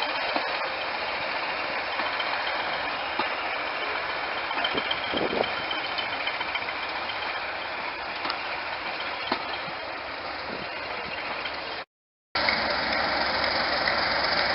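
Diesel locomotive engine idling steadily, with a faint high whine running through it. The sound cuts out for about half a second near the end and then carries on.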